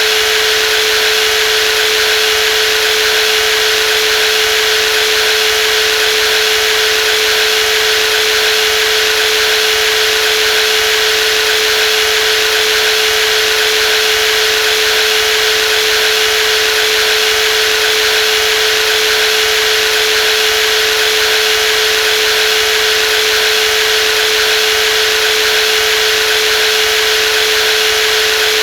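Brushless jigsaw running steadily: one constant whining tone over an even hiss, with no change in speed or loudness.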